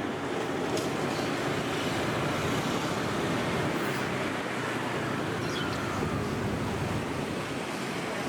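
Long passenger train rolling past, a steady rushing rumble of wheels on rail.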